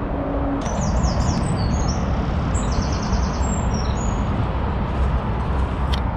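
A songbird singing quick phrases of repeated notes and trills, starting about half a second in, over a steady low rushing background. A single short click near the end.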